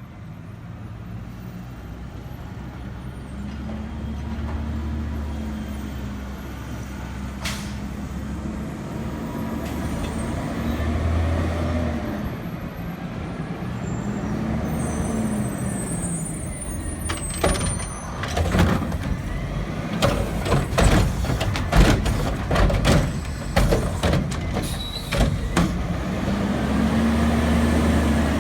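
Garbage truck's diesel engine running and revving up and down several times. In the second half comes a run of loud bangs and knocks.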